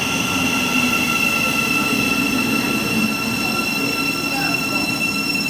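Great Northern electric multiple unit running into the platform and slowing, its wheels and motors rumbling under a steady high-pitched squeal.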